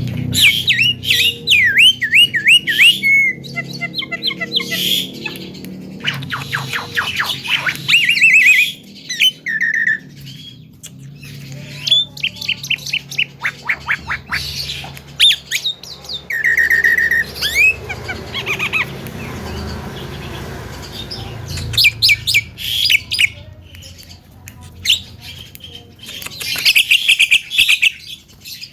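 Javan myna (jalak kebo) calling in bursts: quick runs of squeaky upswept chirps, rapid rattling series and short whistled notes, with pauses between the bursts.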